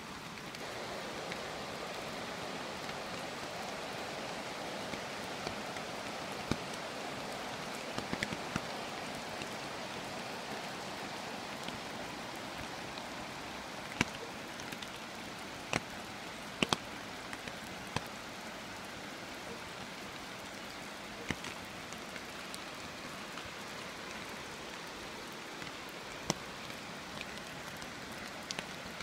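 Steady rain falling, with occasional sharp single taps of drops landing close by.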